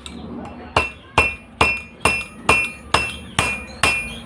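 Hammer striking metal in a steady series of blows, about two a second, starting just under a second in, each with a short ringing.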